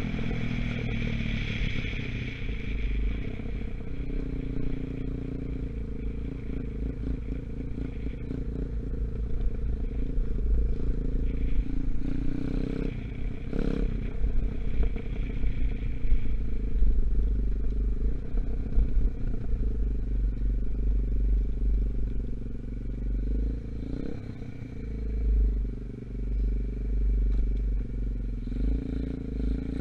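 A 125cc dirt bike engine running as the bike is ridden, its pitch and loudness shifting with the throttle, with a heavy low rumble and some clatter. The engine is still being run in.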